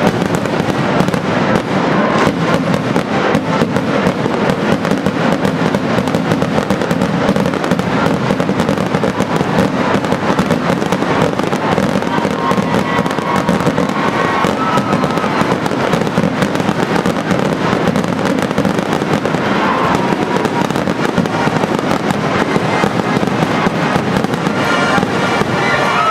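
Fireworks going off in a dense, continuous barrage of bangs and crackles, with music underneath.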